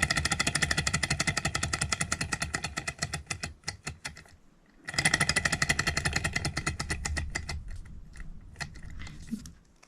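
Small hot-air Stirling engine coasting down after its alcohol flame is blown out: a rapid, even ticking from its moving parts that slows steadily. The ticking breaks off about four seconds in, comes back fast half a second later and slows again to a few scattered ticks near the end.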